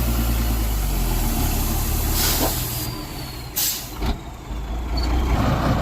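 Heavy cargo truck's diesel engine running low. Short bursts of compressed-air hiss, typical of the truck's air brakes, come about two seconds in and again, louder, at about three and a half seconds.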